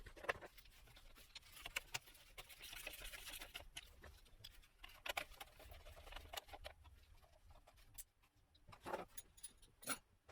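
Faint handling noises of repair work: scattered small clicks, taps and scrapes of parts and tools, with a stretch of rustling a few seconds in and two sharper clicks near the end.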